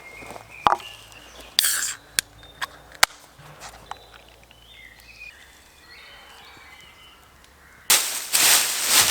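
A few sharp cracks of dry sticks snapping, then a loud rustling crunch of dry leaves and twigs starting about eight seconds in. Small birds chirp in the background.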